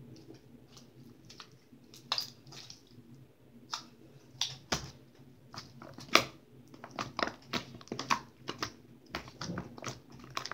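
Homemade slime being squished and pulled in the hands, giving irregular sticky clicks and snapping pops, busiest in the second half.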